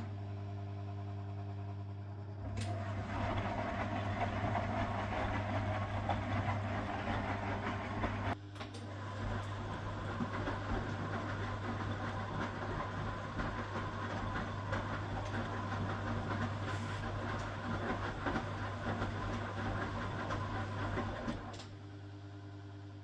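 1969 Zanker VA520 washing machine running: its Hanning gear motor hums steadily under the churning of the drum. The churning grows louder about two seconds in, breaks off briefly near eight seconds, and eases off again near the end.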